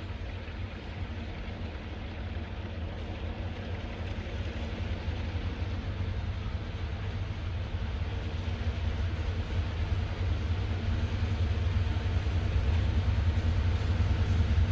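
Low, steady rumble of a train, growing gradually louder as it approaches.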